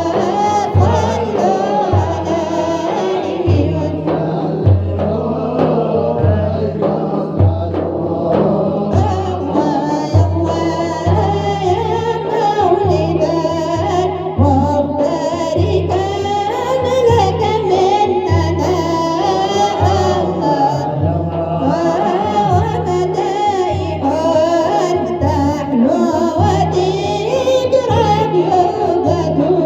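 Male voices singing an Arabic devotional praise song for the Prophet Muhammad over a steady low beat.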